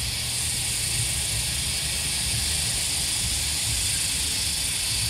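Cicada chorus: a steady, high, shrill hiss that keeps on without a break, over a low rumble.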